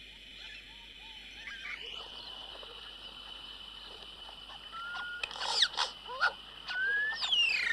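Yellow-rumped caciques singing: from about halfway in, a run of sharp clicks, short rising whistles and a loud falling whistle near the end, over a steady high-pitched hum.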